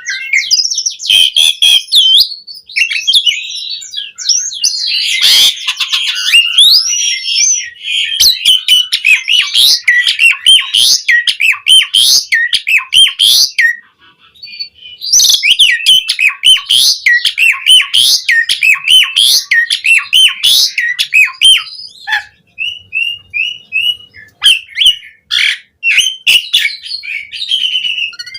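Pied starling (jalak suren) in full song: a fast, varied run of loud whistles, squawks and chattering phrases. It breaks off briefly about halfway through, and the phrases come sparser and quieter in the last few seconds.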